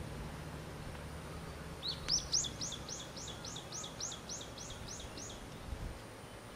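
Ryukyu brown-eared bulbul calling: about two seconds in, a quick run of about a dozen high notes, each rising and falling, lasting about three and a half seconds, over a steady low background hum.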